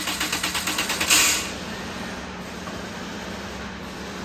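Toyota Corolla engine being cranked by its starter with fast, even pulses for about a second, firing with a louder burst, then running at a steadier, lower level. It is misfiring after its fuel injectors were cleaned and refitted.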